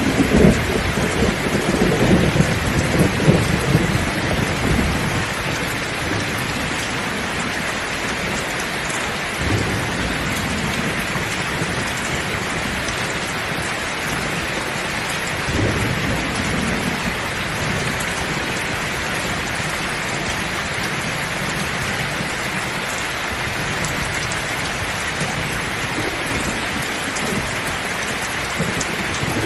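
Heavy rain pouring steadily, a dense hiss. A low rumble of thunder rolls through the first few seconds and dies away, with two fainter rumbles later on.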